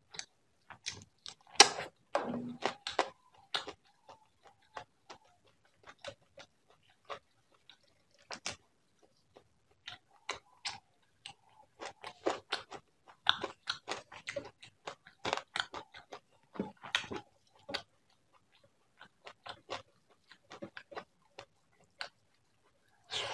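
Close-miked eating sounds of a man eating rice and prawn curry by hand: wet chewing and lip smacks with irregular clicks. They come in busy stretches near the start and through the middle, with sparser, quieter stretches between.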